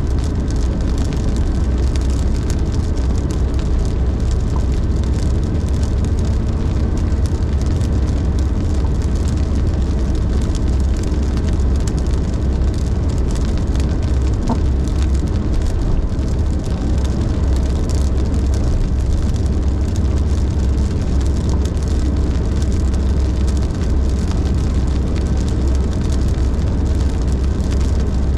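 Car driving at speed on the highway: a steady deep rumble of engine and road noise with an even hiss of tyres on the road above it.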